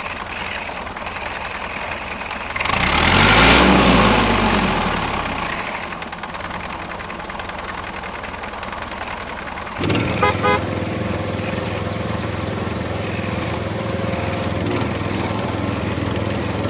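Small engine of a miniature vehicle running. It grows louder with its pitch rising and falling around three to five seconds in, then settles into a steady hum from about ten seconds in.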